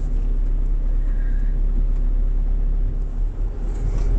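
Car engine running steadily, heard from inside the car as a low, even hum.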